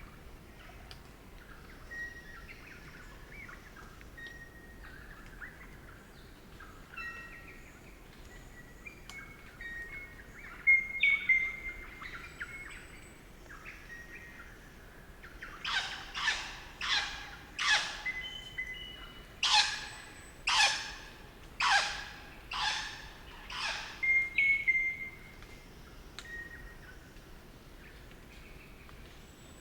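Crimson rosellas calling: scattered short whistled notes, then, about halfway through, a run of about ten loud, harsh screeches roughly a second apart, before the short notes return.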